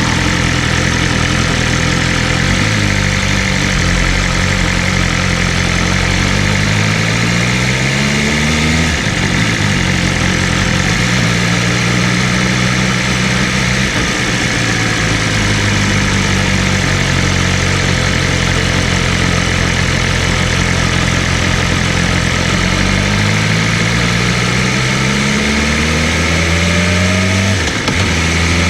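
BMW M1000RR's inline-four engine running at speed under steady wind rush. The engine pitch climbs gradually as it accelerates, breaks briefly at a gear change, holds steady while cruising, then climbs again to another change near the end.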